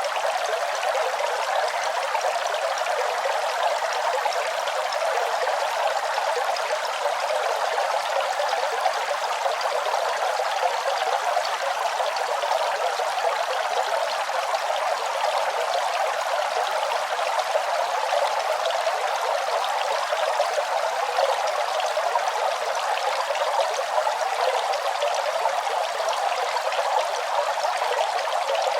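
Running water flowing steadily, an even, unbroken splashing rush that is strongest in the middle and upper range with almost no low rumble.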